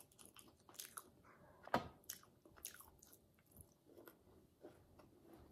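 Close-up mouth sounds of someone chewing a piece of meat eaten by hand: faint, scattered wet clicks and smacks, with one louder smack a little under two seconds in.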